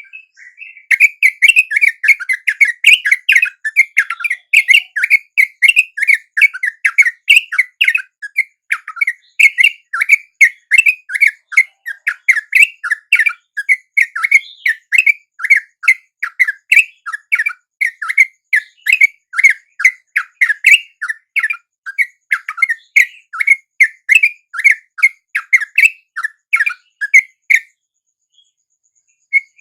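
Sooty-headed bulbul (trucuk) calls played as a lure recording for attracting wild bulbuls: loud, rapid chattering notes repeated at about three a second, stopping briefly near the end and then starting again.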